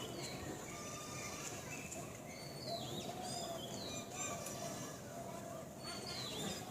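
Birds calling: short sweeping calls, some falling in pitch, repeated every second or two over a steady background hiss.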